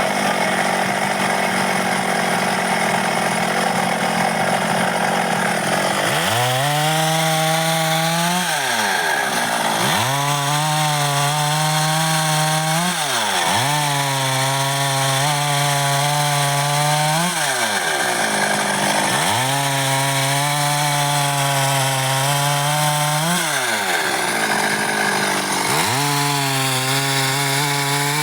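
A Stihl MS 382 two-stroke chainsaw cutting dry wood. It runs steadily at first; from about six seconds in it is throttled up, held at speed, then eased off, over and over about every five or six seconds, as in a series of cuts.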